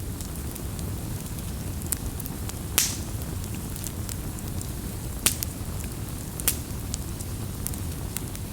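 Wood bonfire crackling: a steady low rush under scattered sharp pops and snaps, the loudest about three, five and six and a half seconds in.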